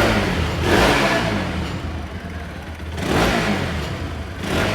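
Bajaj Pulsar RS200's single-cylinder engine revved up several times in throttle blips, with steady running between them. Its cylinder head has just been repaired and its timing chain replaced, after a broken camshaft bearing and a worn cam had made the head noisy, and it is being run to check the sound.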